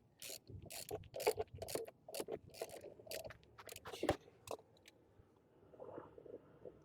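Air filter housing parts being handled and fitted together: a quick run of clicks and scrapes for about four and a half seconds, then quieter fiddling.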